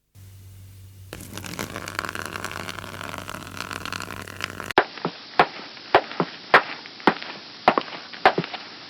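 Footsteps walking at a steady pace on a hard surface: sharp knocks about every 0.6 s begin about five seconds in. Before them comes a hissy, noisy stretch over a low hum, which cuts off suddenly.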